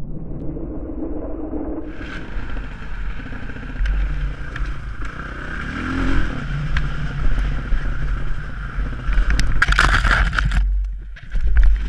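Dirt bike engine running on a trail, mixed with scraping and rustling, and a loud noisy burst about ten seconds in.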